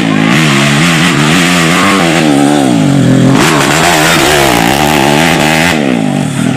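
Grasstrack racing motorcycle engines revving hard, their pitch swinging up and down again and again with the throttle.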